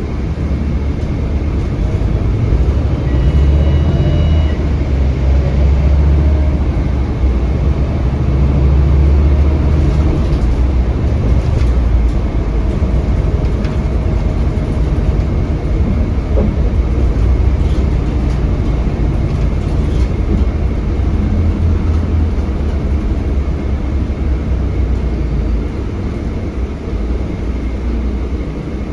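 Scania K320HB bus heard from inside the cabin while driving: its Scania DC9 five-cylinder diesel runs steadily under load with road noise, the engine's low rumble heaviest for the first ten or so seconds and easing later, with a faint steady high whine over it.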